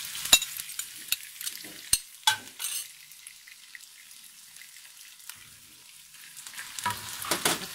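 Chicken, shallots and chilli frying in a non-stick wok with a light sizzle. A few sharp knocks in the first three seconds come as the pounded green chilli is tipped in, and busier scraping and stirring with a wooden spatula comes near the end.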